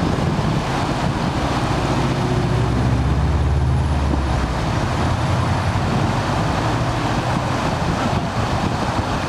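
Small waterfall rushing steadily. A low engine drone from a passing vehicle runs under it, swelling to its loudest around three to four seconds in and fading by about eight seconds.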